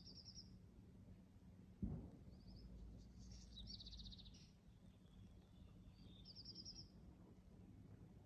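Faint small-bird chirps and short rapid trills, repeating several times, with one sudden low thump about two seconds in.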